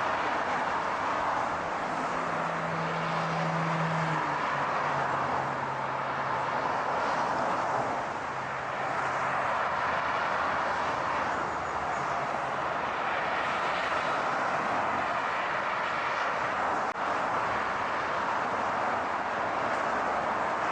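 Car running at steady speed: constant road and engine noise, with a low engine hum that drops in pitch about four seconds in.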